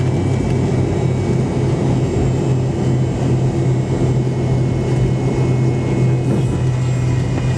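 Cabin drone from the tail-mounted Pratt & Whitney JT8D turbofans of a McDonnell Douglas MD-88, heard from a seat right beside them: a steady low hum with a faint high whine over it, the engines running at low thrust while taxiing after landing.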